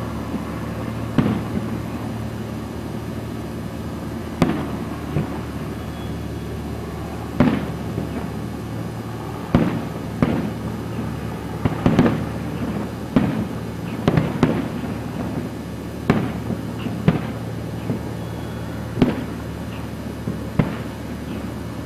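Distant aerial fireworks shells bursting: a string of sharp booms at irregular intervals, one to three seconds apart and coming thicker through the middle, each with a short echo, over a steady low hum.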